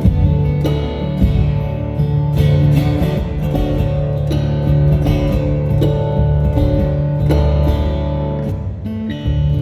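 Music led by a strummed acoustic guitar, with chords held and changing every second or two.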